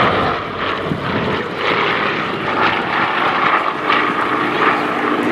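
Radial piston engines of large propeller aircraft in flight, a steady loud drone.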